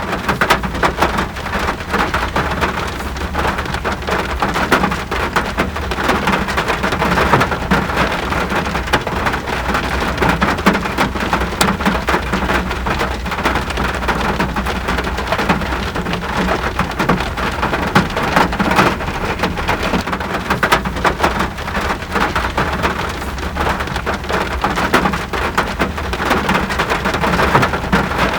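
Steady rain falling hard, a dense hiss of countless drops striking surfaces, with a constant low rumble beneath.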